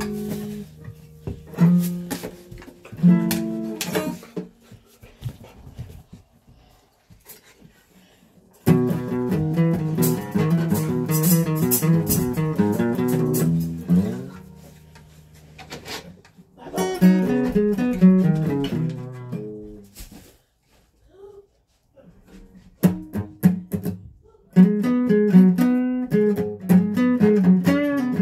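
Guitar being played in separate runs of picked notes and chords with pauses between them: a few notes at the start, then busier passages about a third of the way in, again past the halfway point, and from near the end.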